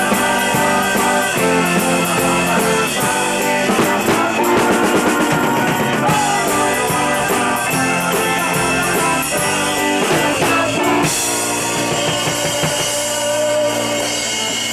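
Live rock band playing with drum kit and guitar. About eleven seconds in there is a cymbal crash, and the band then holds sustained notes toward the end of the song.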